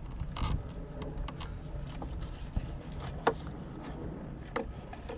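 A few scattered light clicks and taps of hand tools and parts being handled in a truck's engine bay, over a low steady rumble.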